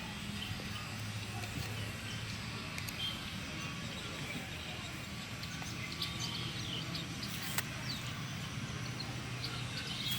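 Small birds chirping in short high calls, more of them in the second half, over a steady low hum of distant traffic.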